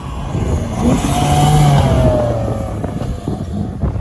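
Rally car passing at speed, its engine note rising as it comes close and falling away as it goes by, loudest about a second and a half in.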